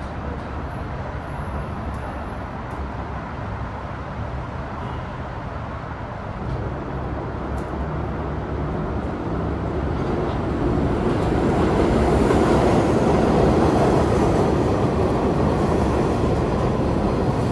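New York City subway train rumbling through a station, the rumble building up from about six seconds in and staying loud to the end.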